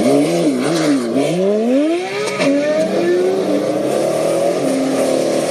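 Car engine revving, its pitch swooping up and down over the first two seconds, then running at a steady pitch.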